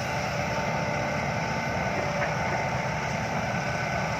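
Heavy diesel engine running steadily at an even speed, with a faint steady whine above the low engine note.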